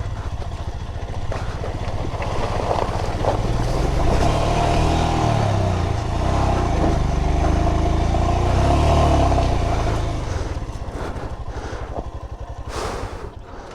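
Motorcycle engine revving through a water crossing, its pitch rising and falling as the throttle works. It eases off near the end, where a short burst of noise stands out.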